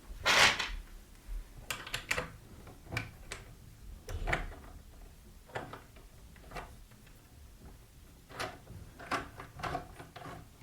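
Irregular clicks, knocks and short scrapes of parts being handled and fitted while assembling a bench pillar drill's feed handle, the loudest less than a second in.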